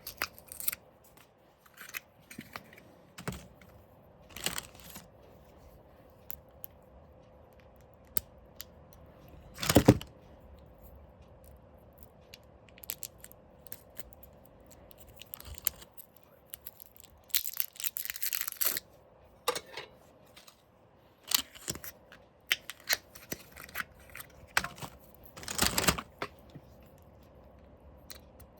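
Drill bits and small parts being handled and set down on a hard surface: scattered light clicks and taps, a louder knock about ten seconds in and again near the end, and a short rustle around the middle.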